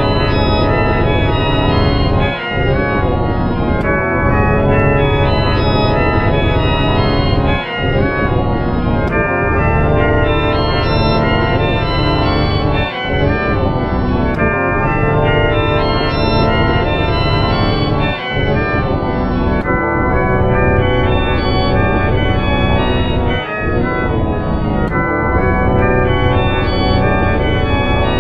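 Dense, organ-like sustained chords made by layering audio with pitch-shifted copies of itself, the 'G Major' video effect. The sound is loud and continuous, with brief dips about every five seconds.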